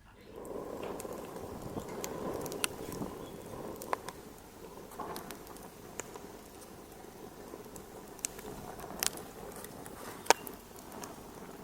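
Fire in a fireplace crackling: a steady low rush of flame with irregular sharp pops and snaps, the loudest pop about ten seconds in.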